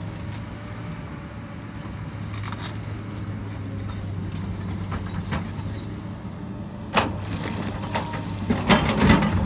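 Hyundai excavator's diesel engine running steadily, with a sharp knock about seven seconds in and a burst of clattering knocks near the end.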